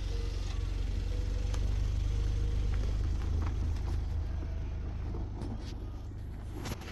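Steady low rumble of a motor vehicle on the move, easing off over the last couple of seconds.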